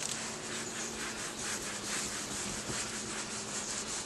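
Scrubbing strokes on the boat's surface during cleaning: a rough rubbing hiss that pulses several times a second.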